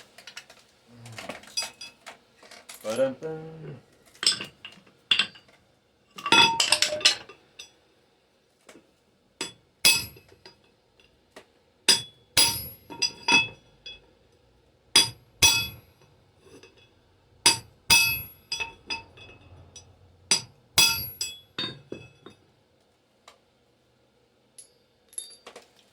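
Small metal parts of a model traction engine clinking and knocking as they are handled and fitted together: a long irregular series of sharp metallic clinks, many ringing briefly.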